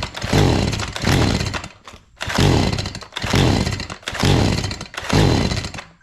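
Stihl MS 180 C chainsaw being pull-started over and over: about six quick pulls of the paracord-restrung recoil starter, each a brief rasping crank of the engine that fades away without the engine catching. The saw does not start.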